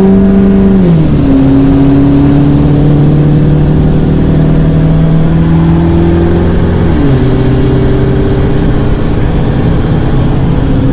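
Bored-out 6.3 L Powerstroke V8 turbodiesel of a 2005 Ford F-250 under hard acceleration, pulling through the gears. The engine note drops suddenly at an upshift about a second in and again about seven seconds in, with a faint high whistle rising and falling above it.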